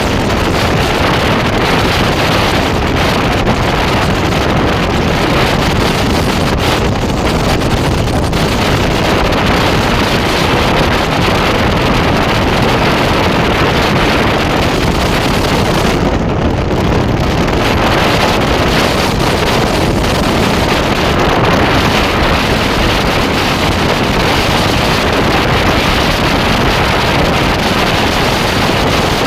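Moving train with wind blowing over the microphone: a steady, loud rushing noise.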